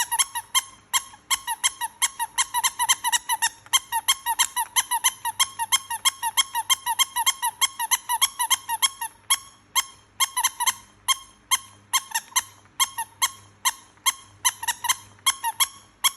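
Turtle toy squeaking over and over, short high squeaks about four a second, each dipping slightly in pitch; after about nine seconds the squeaks come less evenly, with short pauses.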